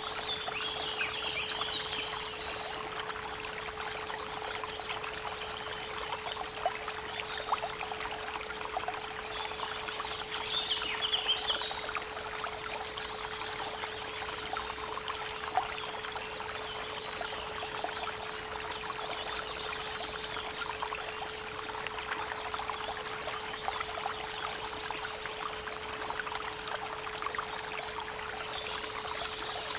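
Creek water running steadily under a constant 432 Hz pure tone, with a bird singing short high phrases every several seconds, most clearly near the start, about ten seconds in and near the end.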